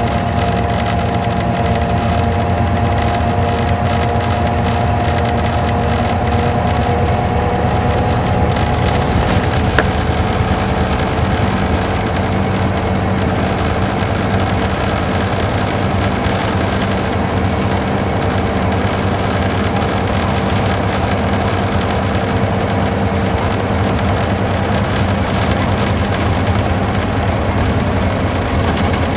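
Isuzu Gala coach's V-type engine running under way, heard inside the cabin together with steady tyre and road noise. A couple of engine tones ease slightly lower over the first half, then the sound holds steady.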